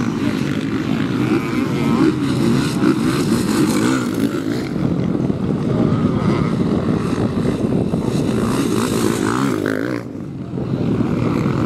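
Motocross bike engines running and revving, several at once, their pitch rising and falling as the bikes race. The level dips briefly about ten seconds in.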